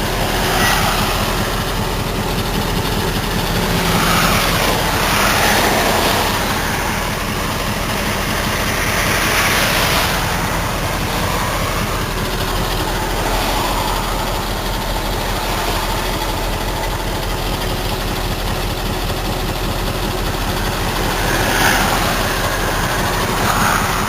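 Cement tanker truck's diesel engine running steadily, heard from inside the cab, with road noise that swells and fades several times.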